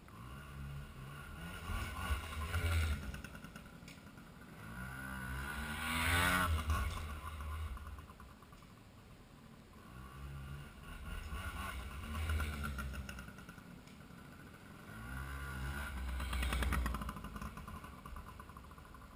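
Yamaha PW80 pit bike's small two-stroke engine revving as the bike is ridden around. It swells and fades about four times as it comes close and moves off, with its pitch rising and falling with the throttle.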